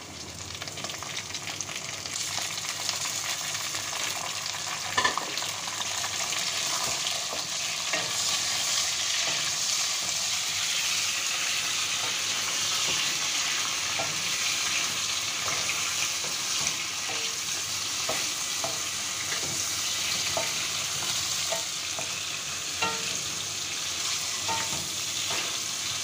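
Raw chicken pieces sizzling in hot oil with browned onions in a metal karahi, stirred with a spatula; the sizzle swells about two seconds in. A few sharp knocks of the spatula against the pan stand out, the loudest about five seconds in.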